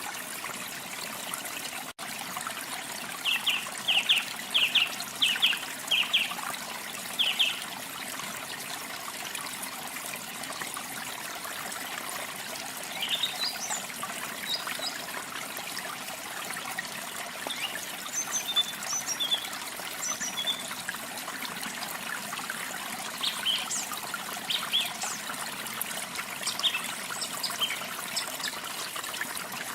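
Steady rush of falling water from a waterfall, with birdsong over it: a run of about seven short, evenly spaced notes a few seconds in, then scattered higher chirps through the second half. A brief dropout in the sound about two seconds in.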